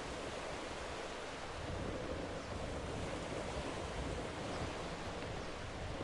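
Steady rushing of wind and water by the sea, with wind buffeting the microphone in uneven low rumbles.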